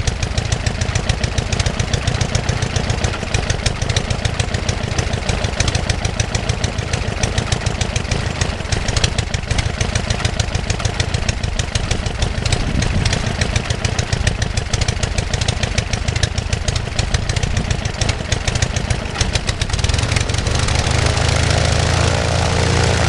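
Global half-VW engine, a two-cylinder four-stroke boxer, running steadily with a rapid, even firing beat. About twenty seconds in the sound grows louder and smoother.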